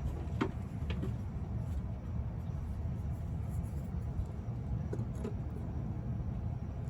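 A 1998 Toyota 4Runner's 5VZ-FE V6 engine idling as a steady low rumble, with a few light clicks near the start and again around five seconds in.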